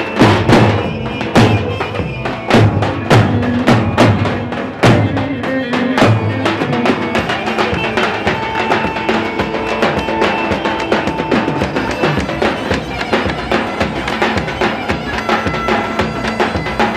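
Halay dance music: heavy drum strokes under a loud, reedy wind melody. The drumming settles into a quicker, even beat about six seconds in.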